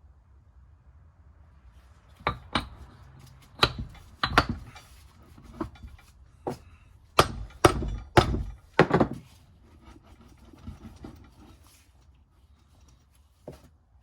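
About a dozen sharp hammer blows at uneven intervals, tapping parts of a BMW E46 M3 limited-slip differential during reassembly. The blows start about two seconds in, with a few fainter knocks near the end.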